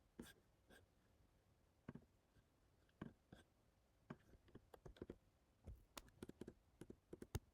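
Faint clicks from a computer keyboard and mouse: a few scattered clicks at first, then quicker runs of clicks in the second half.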